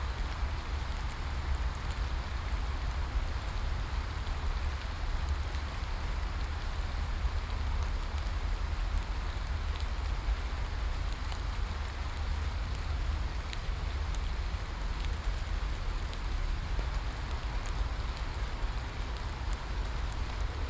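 Steady rain falling: an even hiss with a low rumble beneath it and scattered faint drop ticks.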